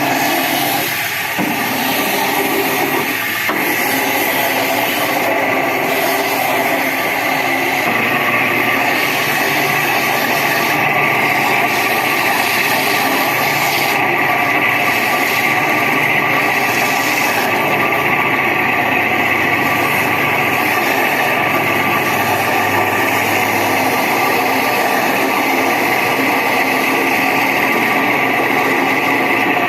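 Window AC fan motor running with the loud noise of its worn bearings, while sandpaper is held against its spinning shaft to polish it, a steady rasping run with no break.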